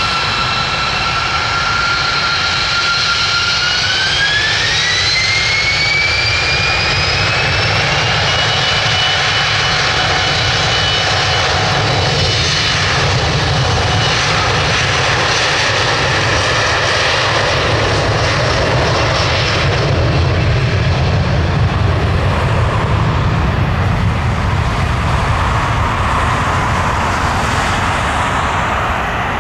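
Embraer 175 jetliner's twin GE CF34 turbofans spooling up to takeoff power: a high engine whine rises in pitch a few seconds in, then settles into a steady jet roar as the aircraft rolls down the runway and lifts off. The roar swells about two-thirds of the way through and begins to ease near the end.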